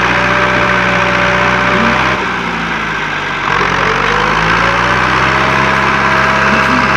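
Tractor engine running steadily, its sound changing abruptly about two seconds in and again a second or so later.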